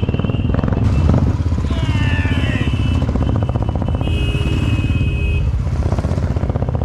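Royal Enfield motorcycle engine running under way, a dense steady beat of firing pulses.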